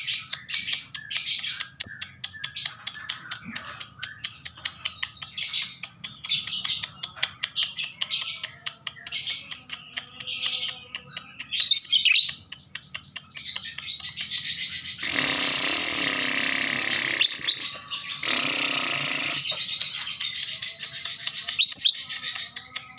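Lovebird chirping in quick, short, high-pitched bursts, with a louder, harsher stretch lasting a few seconds about two-thirds of the way through.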